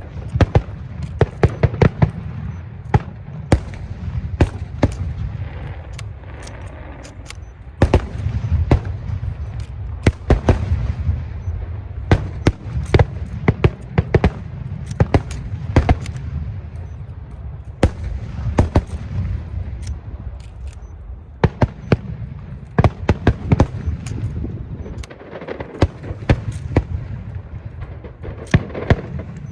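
Fireworks display: a rapid, irregular barrage of sharp bangs and pops, many close together, over a continuous low rumble of shells going off.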